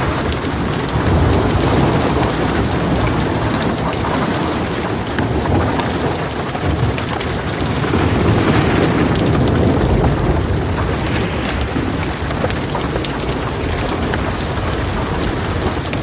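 Heavy rain falling on a metal roof, dense and steady with the patter of individual drops, and a low rumble of thunder swelling about halfway through.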